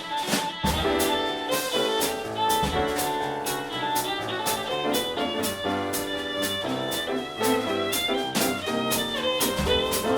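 Jazz trio of violin, piano and drum kit playing a swinging tune, with an even cymbal beat of about three strokes a second under the melody.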